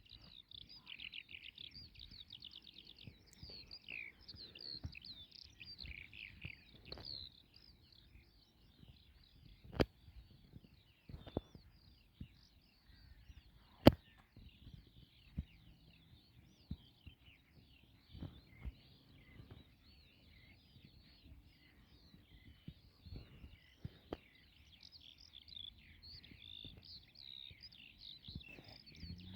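Many small birds chirping and twittering together, with a few sharp knocks or clicks over it, the loudest about ten and fourteen seconds in.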